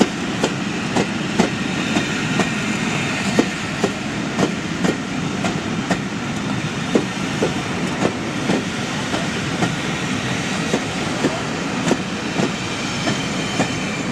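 Railway coaches rolling past, their wheels clicking over rail joints about once or twice a second over a steady rumble.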